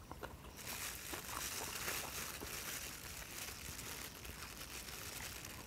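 Faint chewing of a pickle slice, heard close on a clip-on microphone, with a few small clicks.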